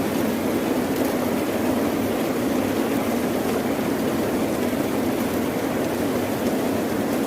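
Steady rushing noise of rain and ocean waves, holding an even level with no distinct swells or breaks.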